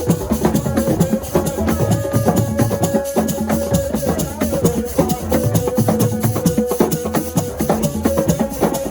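Senegalese assiko percussion music: fast, dense drumming and shaker strikes over a long held note.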